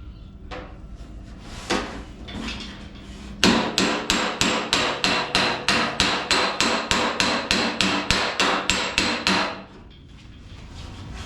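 Hammer striking the steel fender over a dolly: a few scattered knocks, then an even run of blows at about four a second for some six seconds, each with a metallic ring. This is hammer-and-dolly work pushing out a low spot by a welded patch to take out oil canning.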